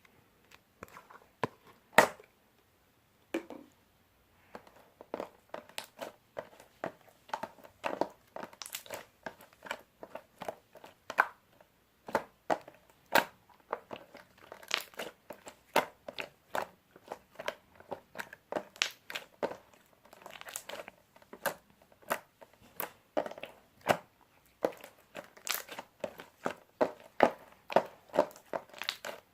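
Crinkling and crackling handling sounds: a dense, uneven run of sharp clicks and crackles, several a second, with one loud snap about two seconds in.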